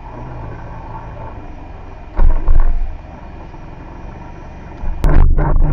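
Motorcycle on the move: steady ride noise with wind on the microphone, and heavy wind buffets about two seconds in and again near the end.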